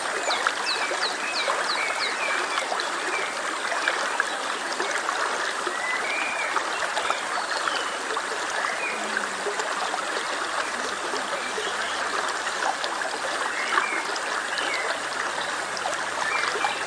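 Stream babbling steadily, with small birds chirping now and then above it.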